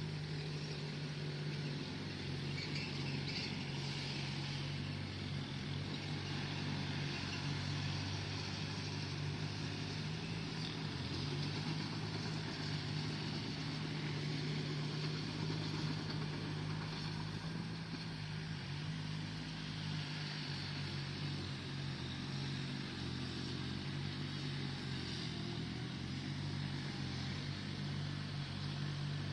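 Bulldozer's diesel engine running at a steady pitch while the machine works.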